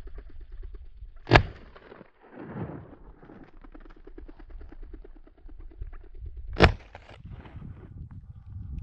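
Two shotgun shots about five seconds apart, fired at chukar flushed from in front of a pointing dog.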